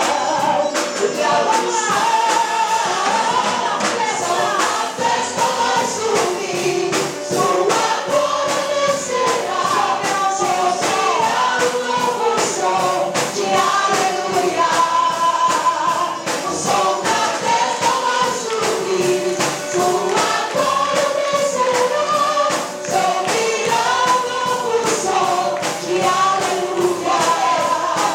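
Gospel song sung by a group of voices over band accompaniment with a steady beat.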